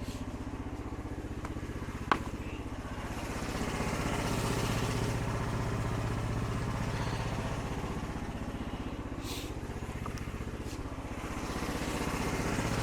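An engine idling steadily, with one sharp knock about two seconds in.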